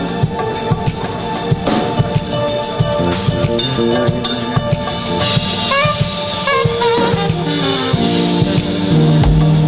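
Live band playing an instrumental passage: a drum kit keeping the beat with kick and snare under held melodic notes, with a short run of bending notes around the middle.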